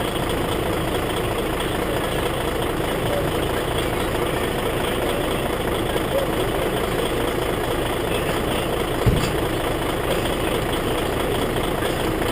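Heavy truck engine idling steadily, with a single low thump about nine seconds in.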